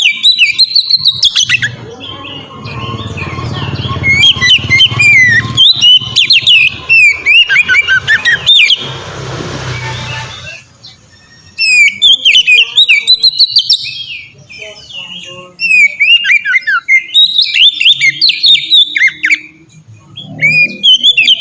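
Oriental magpie-robin (kacer) singing loudly and continuously: rapid, varied whistled phrases of sweeping notes, with two short breaks, one about halfway through and one near the end.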